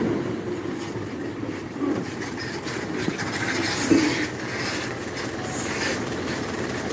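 Train running past on the rails, a steady rumble with scattered clicks and rattles of wheels over the track.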